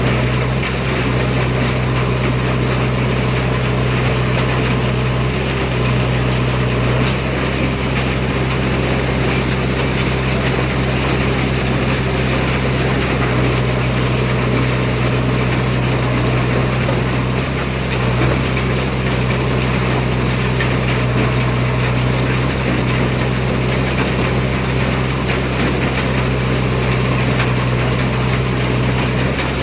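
Heavy diesel engine running steadily at a constant speed, with a dense mechanical clatter over its low hum.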